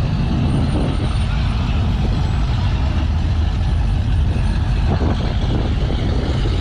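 Steady low rumble of classic car and truck engines running, as vehicles move through a car-show parking lot.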